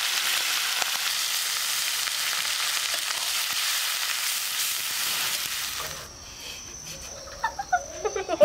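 Dried fish and spice paste sizzling in hot oil in a metal wok, stirred with a spatula, a steady frying hiss for about six seconds. It then drops away, and a woman laughs briefly near the end.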